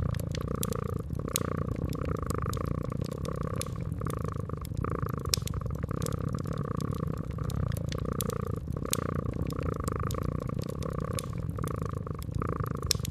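A cat purring steadily, the purr swelling and fading about once a second with its breathing, over the scattered sharp crackles of a fireplace fire.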